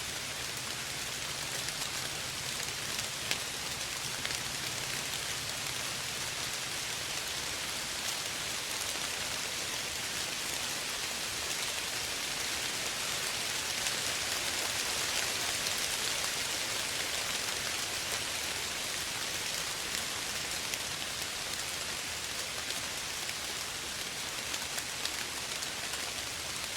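Steady soft rain falling, a dense even hiss of drops with fine ticks of individual drops landing on surfaces, swelling slightly in the middle.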